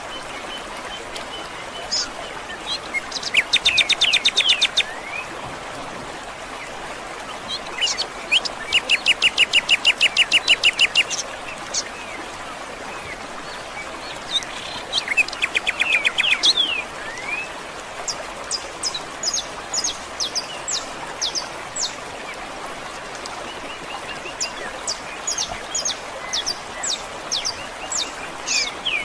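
Songbirds singing: three rapid trills, each a second or more long, then a run of short, high, sharp chirps over a steady background hiss.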